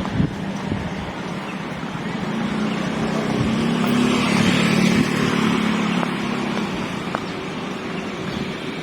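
A motor engine running as it passes close, its hum and noise growing louder toward the middle and then fading.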